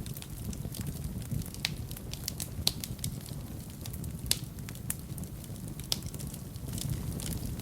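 Wood fire burning in a fireplace: a low steady rumble of flames with irregular sharp crackles and pops, a few of them louder.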